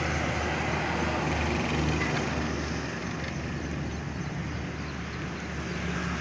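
Steady background hum and noise of distant road traffic, with a low engine drone underneath.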